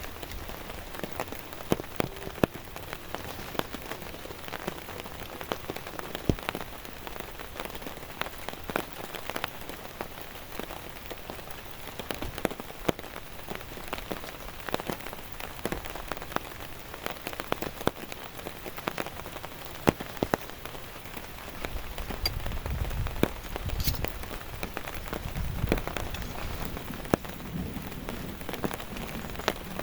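Heavy rain falling steadily, with many sharp, close drop hits on a surface. A low rumble joins in about two-thirds of the way through.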